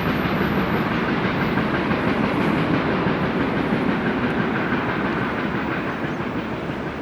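A train rolling past on the track, its wheels running over the rails in a steady loud rumble that begins to fade near the end.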